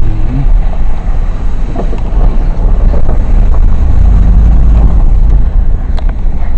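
Truck driving through mud: a loud, steady low rumble of engine and tyres, with wind buffeting the microphone held out of the window and a few faint knocks.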